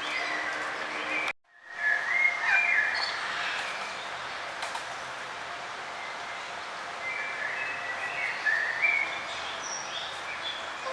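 Small songbirds chirping, short high notes and quick warbled phrases over a steady outdoor hiss. The sound cuts out abruptly for a split second about a second and a half in, then the chirping picks up again.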